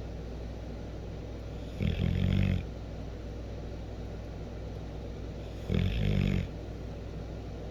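A sleeping dog snoring: two rattling snores about four seconds apart, each lasting under a second.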